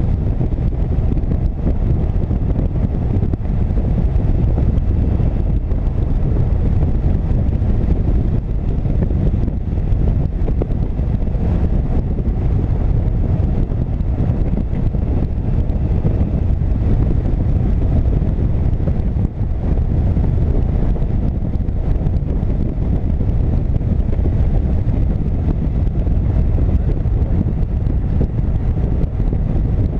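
Motorcycle cruising at a steady highway speed: heavy wind buffeting on the microphone covers the engine and road noise. The sound holds steady throughout, with no change in speed.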